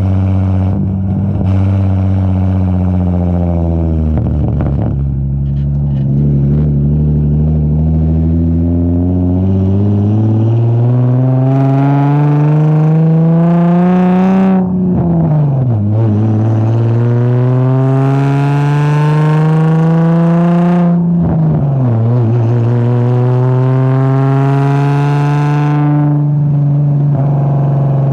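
Straight-piped Infiniti G35 V6 exhaust, through a single-exit Z1 exhaust, pulling under load. Its pitch eases off about four seconds in, climbs slowly, drops sharply about halfway through as it shifts up, climbs again, drops sharply once more about three-quarters through, then holds steady.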